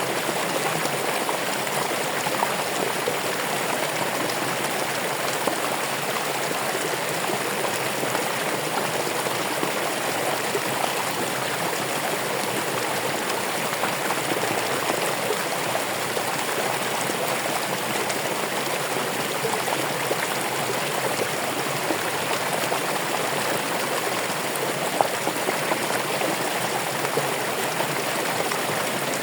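Running water flowing steadily in an even, unbroken rush.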